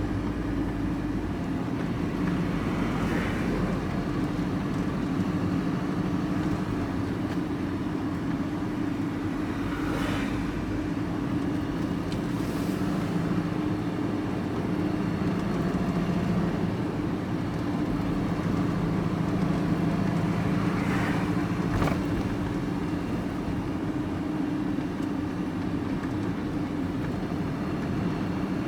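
A road vehicle driving along, heard from inside the cab: a steady engine drone with road noise and a few faint knocks.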